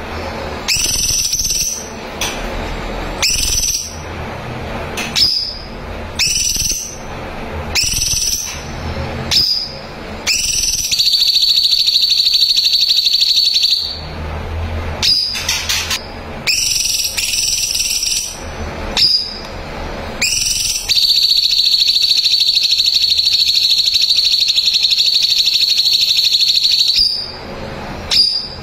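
Cucak cungkok bulbul singing: short, rising whistled notes about once a second. Twice these give way to a long, steady, high trill, first for about three seconds and later for about six.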